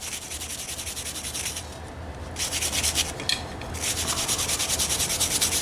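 Hand wire brush scrubbing scale off the hot steel billet in rapid back-and-forth strokes, in two spells with a short break about a second and a half in.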